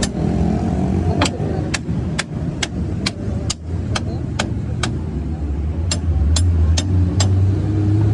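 A motor vehicle engine running steadily with a low hum, under a row of sharp knocks, about two to three a second, that pause briefly midway and stop near the end.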